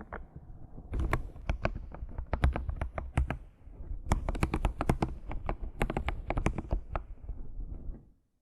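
Computer keyboard being typed on in quick runs of keystrokes, then stopping shortly before the end.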